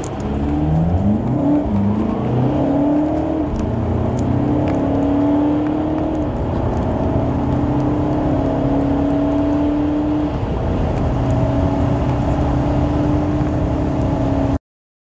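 Turbodiesel car engines accelerating flat out from a standstill, heard from inside the cabin. The engine note climbs through each gear and drops at each upshift, with quick shifts in the first two seconds and longer pulls after. The sound cuts off suddenly near the end.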